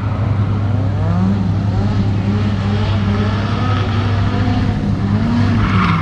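Car engine revving up and down several times over a steady low drone.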